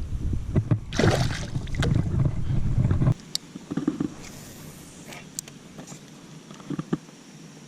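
Wind rumbling on the microphone over water sounds and small scrapes around a kayak; about three seconds in the rumble cuts off suddenly, leaving faint hiss with a few light clicks and knocks.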